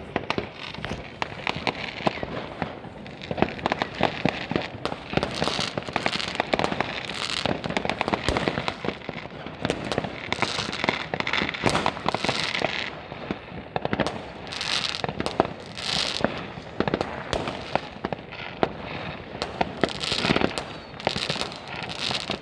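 Fireworks and firecrackers going off in a dense, continuous run of overlapping bangs and pops, with hissing, crackling swells between them.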